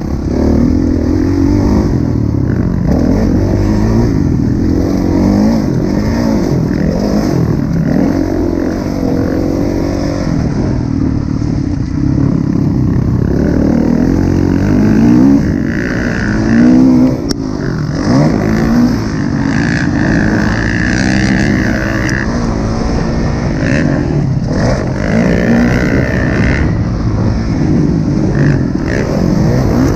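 2016 Kawasaki KX450F's single-cylinder four-stroke engine being ridden hard, its pitch rising and falling every second or two as the throttle is opened and closed.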